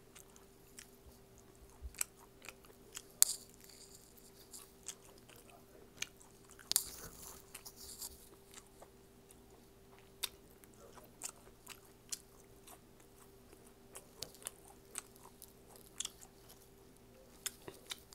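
Close-up chewing and biting of crispy fried bangus (milkfish), with irregular sharp crunches. The loudest crunches come about three and seven seconds in.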